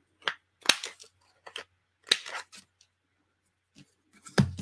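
Handheld paper corner rounder punch clicking sharply as it cuts the corners of a paper piece, about four main snips spread across the first couple of seconds, then a louder, duller knock near the end.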